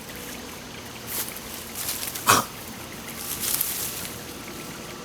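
Steady outdoor background hiss, with one short, sharp cry about two seconds in and a few fainter rustling patches.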